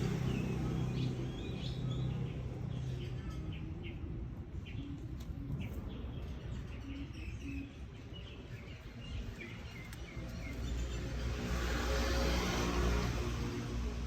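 Outdoor ambience: small birds chirping in short scattered calls over a steady low hum. A rushing noise swells and fades about eleven seconds in.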